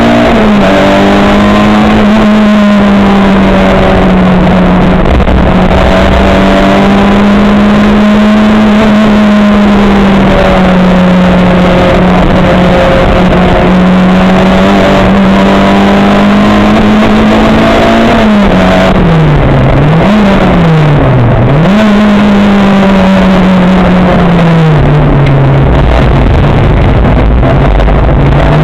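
Race car engine running hard at high, steady revs; about two-thirds through, the revs drop and climb back twice in quick succession, then hold somewhat lower to the end.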